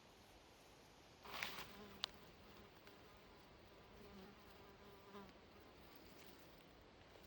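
An insect buzzing faintly on and off for a few seconds, with a brief rustle and a sharp click near the start.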